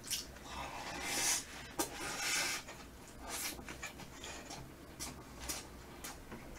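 Close-miked eating sounds: a person chewing and smacking on a mouthful of rice and braised chicken, with breaths through the nose and a few sharp clicks of chopsticks.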